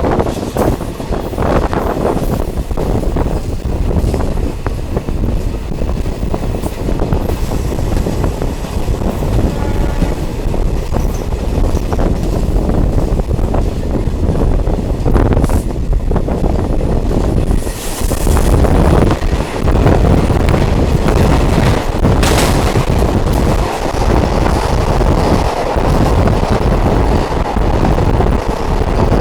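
Diesel multiple unit train running: a loud, steady rumble of the train in motion, with a few sharp knocks in the second half.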